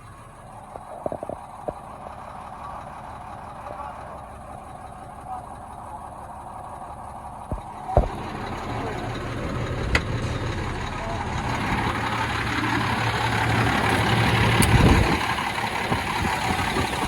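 Heavy diesel truck engine, the International 8600's Cummins ISM, running steadily and growing louder over the second half, with a few sharp knocks along the way.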